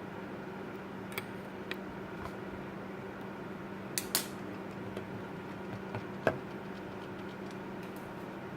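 Steady low electrical or fan-like hum in a small room, with a few scattered sharp clicks and taps; the loudest is a single click about six seconds in.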